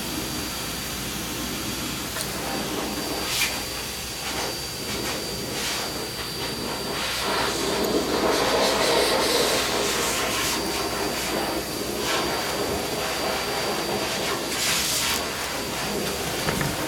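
Steady hissing machine noise with a thin high whine running through it, louder for a few seconds in the middle, with scattered clicks and rustles.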